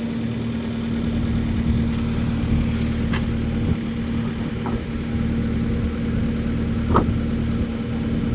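The engine of a machine being guided into position runs at a steady idle. There are two brief sharp metallic sounds, one about three seconds in and one near seven seconds.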